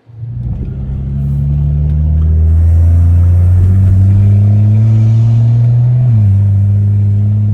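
Straight-piped BMW N55 turbocharged inline-six exhaust pulling under acceleration, its note climbing slowly in pitch for about six seconds. Then a gear change drops the pitch suddenly, and it carries on steady at the lower pitch.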